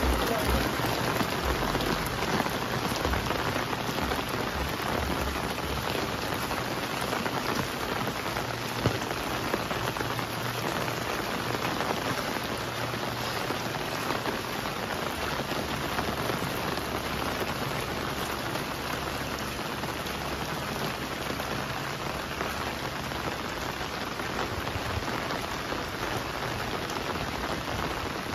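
Steady rain falling, an even hiss of drops on the surfaces around.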